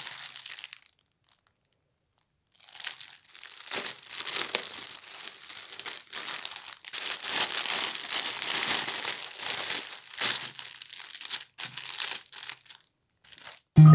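Packaging being handled: crinkling and rustling with some tearing, starting a couple of seconds in and going on in irregular spurts with brief pauses.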